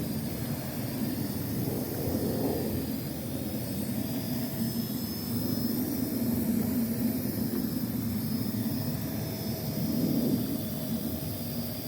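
Parrot AR.Drone 2.0 quadcopter's electric motors and propellers running steadily, a buzzing drone with a faint whine above it that swells and eases a little.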